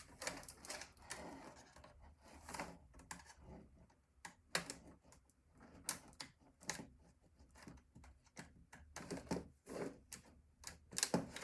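Scattered plastic and metal clicks and light knocks as a screwdriver and fingers work at an old computer's casing and parts, prying at a cover; irregular, with a few louder clacks spread through.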